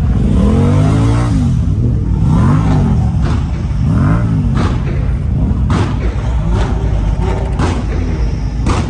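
Car engines revved in short blips, the pitch climbing and dropping three times, over a steady low rumble of running engines. Sharp cracks follow later.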